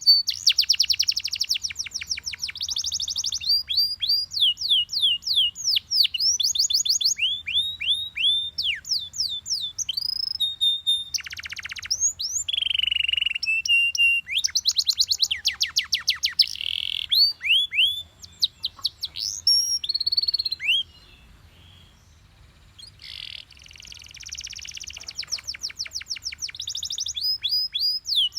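Yellow Belgian canary singing: rapid trills and runs of quick, repeated downward-sweeping notes. The song breaks off for about two seconds about three quarters of the way through, then starts again.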